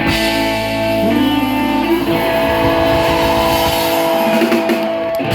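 Live band music with guitar to the fore, playing long held notes and chords at a loud, steady level.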